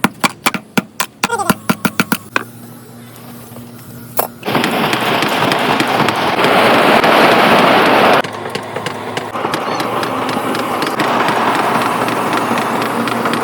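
Quick hammer blows on steel, about four a second, for the first couple of seconds. Then a power tool starts humming and grinds into the steel sprocket with a loud, harsh hiss that eases to a steadier, softer grind near the end.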